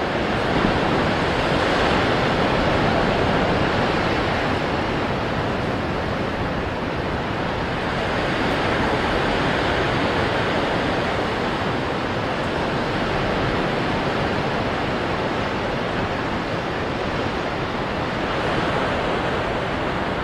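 Ocean waves breaking on rocks: a continuous wash of surf that swells and eases every few seconds.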